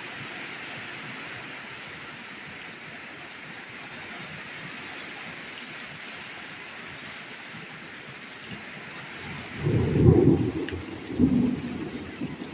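Torrential rain pouring down in a steady hiss. About nine and a half seconds in, a loud, low rumble of thunder breaks in and goes on in uneven surges.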